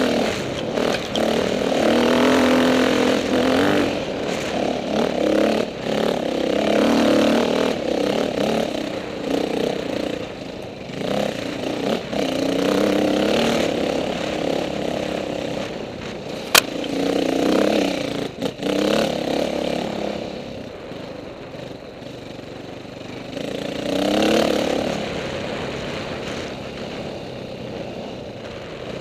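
Dirt bike engines revving and passing one after another, each rising and falling in pitch, dying down over the last third. A single sharp click about halfway through.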